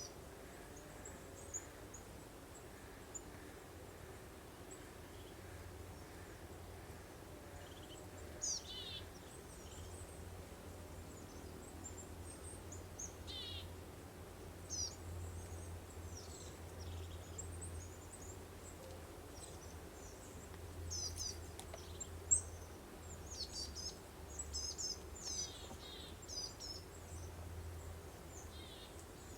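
Songbirds chirping and trilling, with short high calls scattered at first and coming thicker and closer together in the second half, over a faint steady breeze and a low rumble.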